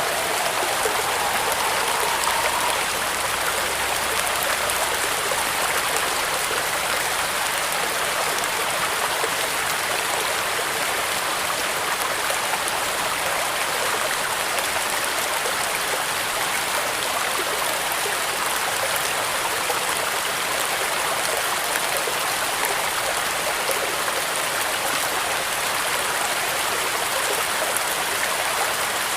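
Steady rain falling, an even unbroken hiss with no distinct drops or gusts standing out.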